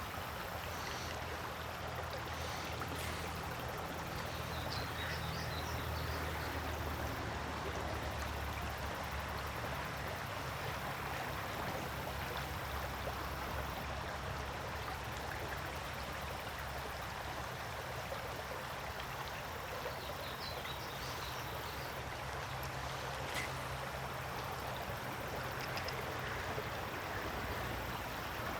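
Shallow creek water running steadily over rocks: a constant rushing hiss that stays even throughout.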